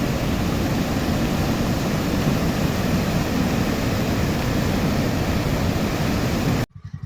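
Loud, steady rush of a flooded river's fast-flowing water. It cuts off suddenly near the end, giving way to a low, rhythmic chugging like an engine idling.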